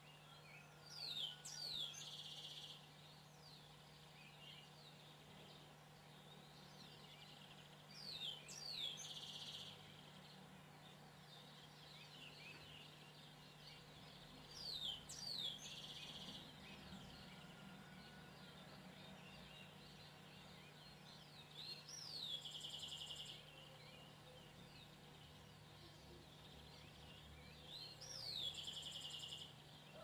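A songbird repeating the same short song about every seven seconds: two or three quick falling whistles, then a fast trill lasting about a second. A steady low hum runs underneath.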